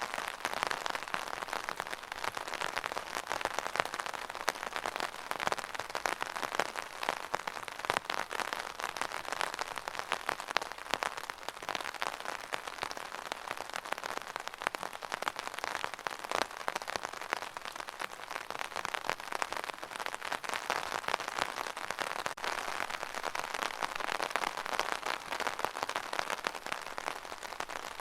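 Steady rain falling on a hard surface: a dense, even patter of many drops with occasional sharper drips.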